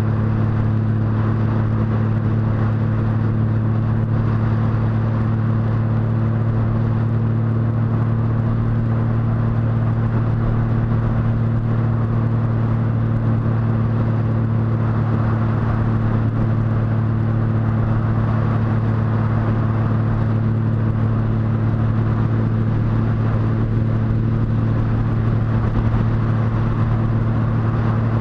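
Motorcycle engine running at a steady, unchanging speed while riding, a constant hum that never rises or falls.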